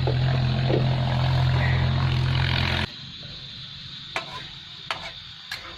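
A diesel truck engine idling with a steady low drone, cut off abruptly about three seconds in, leaving a quiet background with a few light clicks.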